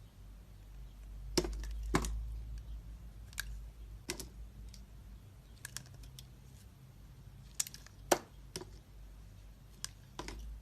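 Knife cutting into a bar of soap: irregular crisp clicks and snaps, about ten of them, the sharpest about a second and a half in and again near eight seconds, over a low steady hum.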